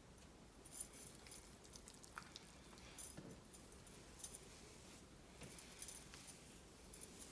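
Faint sticky squishing and small clicks of hands working styling gel through wet, sectioned hair, in scattered bursts.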